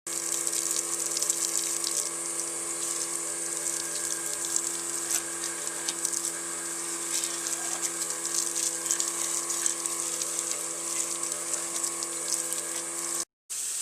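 Water spraying from a hose spray attachment onto a motorcycle, a steady hiss with small crackles, over a steady machine hum. Both cut out abruptly near the end.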